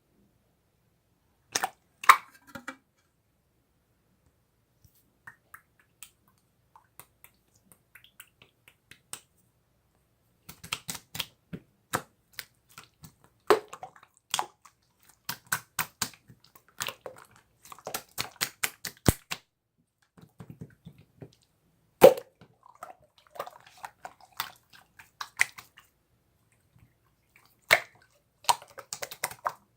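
Slime being squeezed and stretched by hand, giving irregular sharp clicks and pops as trapped air bursts, in clusters with short quiet gaps between them.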